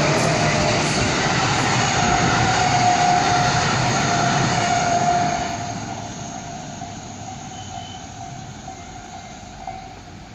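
A train passing close by: loud for about the first five seconds, then fading away as it moves off.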